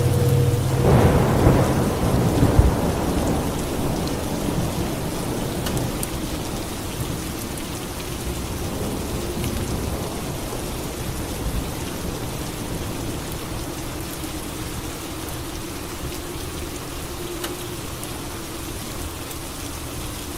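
Steady rain falling, with a rumble of thunder rolling through the first few seconds, peaking sharply between two and three seconds in and then fading into the rain.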